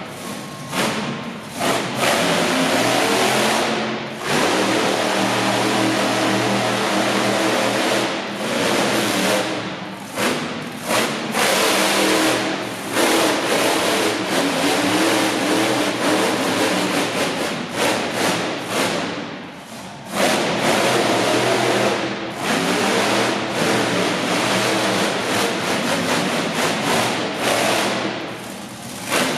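Monster truck engine revving hard again and again, its pitch climbing and falling, with short throttle lifts between bursts several times.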